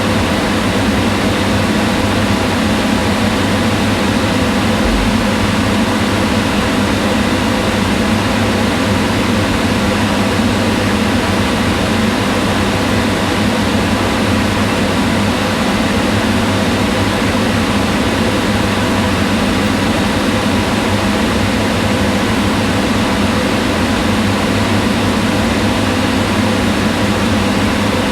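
Kitchen range hood exhaust fan running steadily: an even rush of air with a low hum and faint steady tones.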